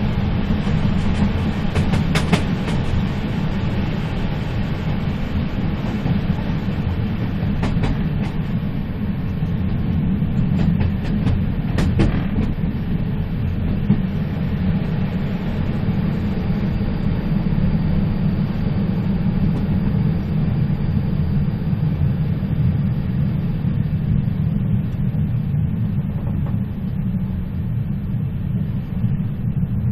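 A moving train running with a steady low rumble, with a few sharp knocks from the wheels or cars about 2, 8 and 12 seconds in.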